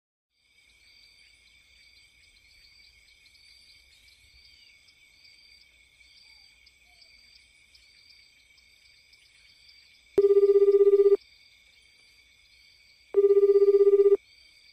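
Telephone ringing tone: a low buzzing ring on for about a second, twice, about three seconds apart, over a faint steady high-pitched chirring.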